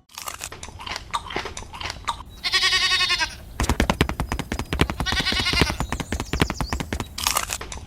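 Two bleating animal calls, a few seconds apart, over a dense run of crunching clicks.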